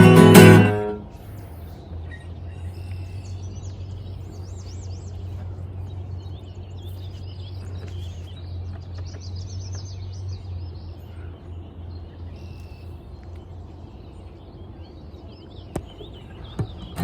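Strummed guitar music stops about a second in. Birds chirp faintly over a steady low hum, and two short clicks come near the end.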